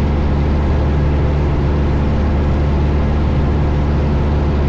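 Steady cabin drone of a 1972 Cessna Skyhawk in flight: its four-cylinder Lycoming engine and propeller running at a constant setting, mixed with rushing air noise, heard from inside the cabin.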